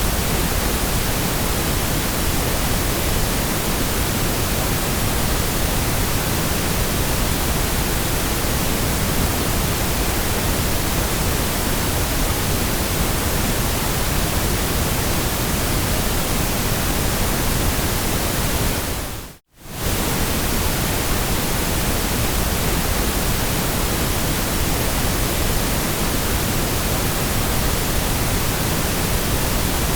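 Steady white noise, an even hiss spread across all pitches. About two-thirds of the way through it briefly fades to silence and comes straight back.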